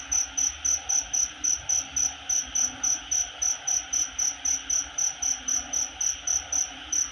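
Night chorus after rain: a loud insect, likely a cricket, chirps at an even rate of about four to five high chirps a second. Beneath it is a steady hiss of other insects and a faint low chorus of calling frogs.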